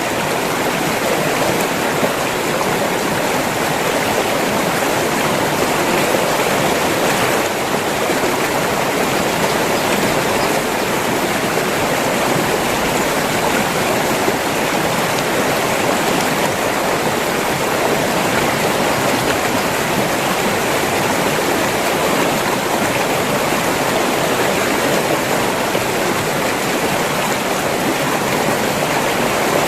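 River water rushing and splashing over rocks, a steady, even noise without a break.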